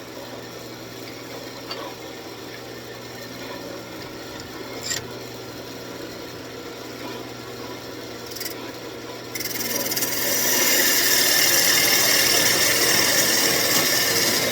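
Wood lathe running with a steady motor hum while a turning tool lightly scrapes the spinning walnut blank. About nine seconds in, the tool is pressed harder into the wood and a loud, hissing cut runs until just before the end.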